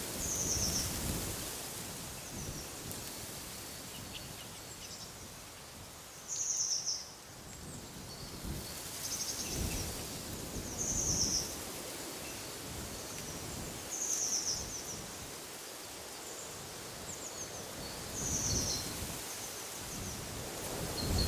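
Wind rustling through trees as a steady hiss, with a bird giving short, high calls every two to four seconds.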